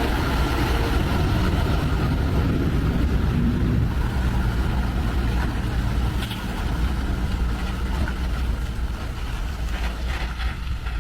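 Heavy truck's diesel engine running steadily under load, a low rumble that grows gradually quieter over the last few seconds.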